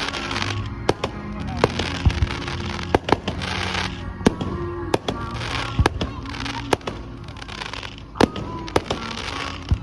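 Fireworks display: repeated sharp bangs, with crackling bursts in between.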